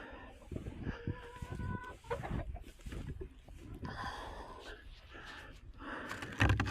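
Chickens clucking, with a few drawn-out calls in the first two seconds and more calling from about the middle on. Short low thuds run through it, and a louder one comes near the end.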